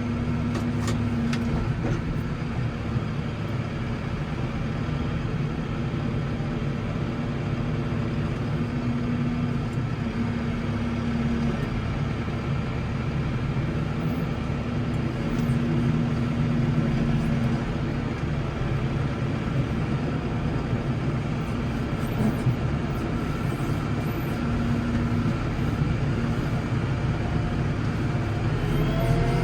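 Case 115U tractor engine running steadily while snowplowing: a continuous low drone, with a hum that swells and fades a few times.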